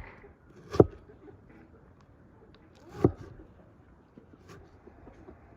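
Two sharp knocks, about two seconds apart, over a quiet background.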